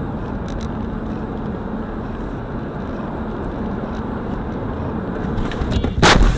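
Steady car road and engine noise picked up by a dashcam, then a single loud crash about six seconds in: the impact of a vehicle collision.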